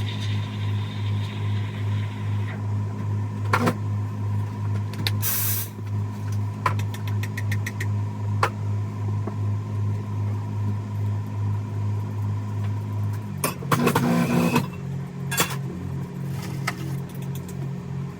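Steady low machine hum with an even pulsing beat and light clicks and knocks over it. About 13 seconds in there is a loud whirring burst lasting about a second, and the hum settles at a slightly different pitch.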